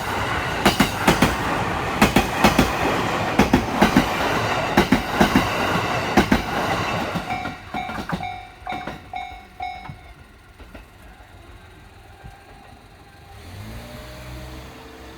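JR East E231-series commuter train passing over a level crossing, its wheels clattering over the rail joints, with the crossing's warning bell dinging in a steady beat. The train clears after about seven seconds, the bell rings on alone and stops about ten seconds in. A low engine-like tone rises in pitch near the end.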